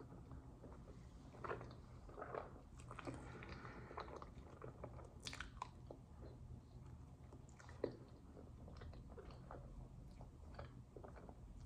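Quiet close-up eating sounds: a person chewing soft waffle and fruit, with wet mouth smacks and a few sharper clicks scattered through.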